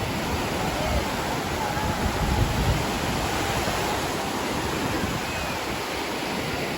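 Steady wash of surf and wind on a beach, with faint distant voices.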